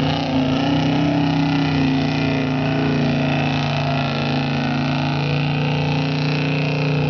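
Mud bogging truck's engine running at steady revs, its pitch held almost level and dipping slightly about four seconds in.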